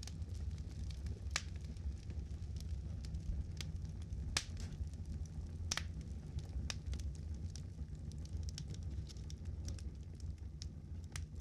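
Campfire crackling, with irregular sharp pops, a few of them louder, over a low steady rumble.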